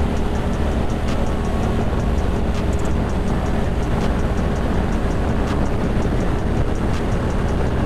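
Ducati Monster 620's air-cooled L-twin engine running steadily at cruising speed, with wind rushing past.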